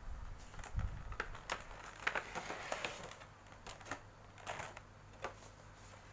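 Packaging of a boxed figure being handled and opened: cardboard and plastic clicking and crinkling in short irregular bursts, with a low bump about a second in.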